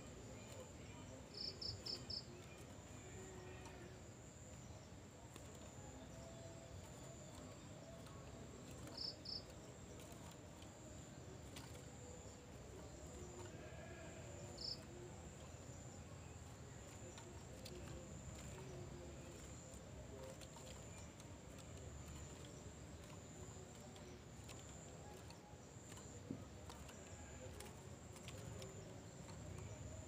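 Small cage bird giving short, high chirps: a quick run of four about a second and a half in, two more near nine seconds, and a single one around fifteen seconds, over a faint, steady, high-pitched hum.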